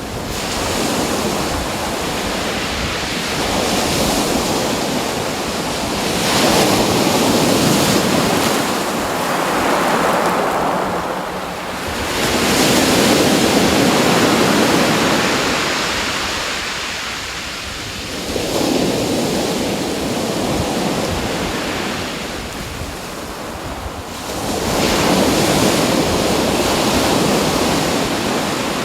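Ocean waves washing onto a shore, the rushing swelling and fading every five or six seconds.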